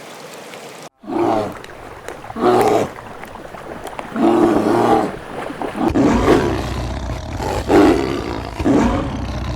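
An animal calling over and over, about seven short calls each under a second long. A low rumble runs underneath from about six seconds in.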